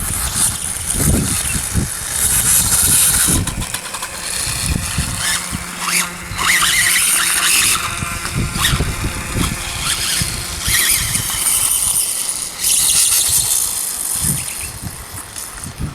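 Electric RC dirt bike model (Reely) driving over loose ground, its motor and tyres surging and easing off in repeated bursts with a hiss of spraying dirt.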